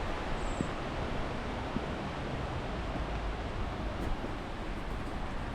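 Steady rushing wind noise on the microphone, an even hiss without a distinct pitch.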